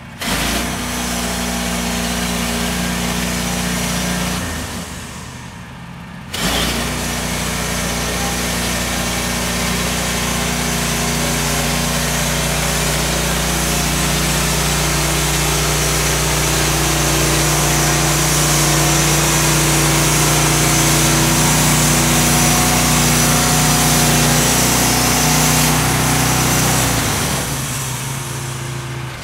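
Portable band sawmill running: a steady engine drone with the hiss of the blade cutting through a log. The sound dips about four seconds in, picks up again near six seconds, and falls away near the end.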